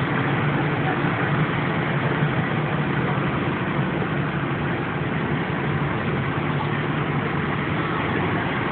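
Heavy rescue truck's engine idling steadily, a low even hum under street noise.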